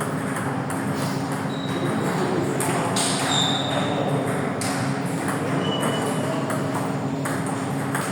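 Table tennis balls clicking against paddles and the table in quick, irregular strikes during play, over a steady low hum. There are a few short, high squeaks, one about three seconds in.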